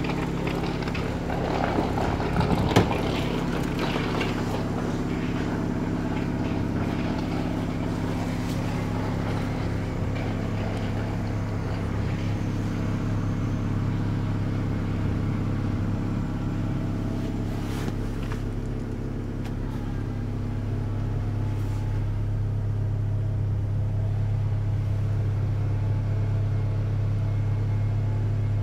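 Acura Integra's B18 non-VTEC 1.8-litre four-cylinder engine idling steadily, with a sharp knock about three seconds in.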